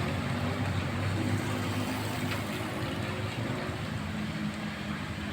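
A small motor scooter's engine labouring up a steep slope, its steady hum slowly fading as it moves off, under the even hiss of heavy rain.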